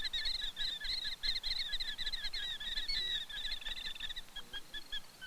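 Killdeer calling in a fast, unbroken run of high notes, thinning to a few short, separate notes about four seconds in; the calls accompany its broken-wing distraction display near the nest.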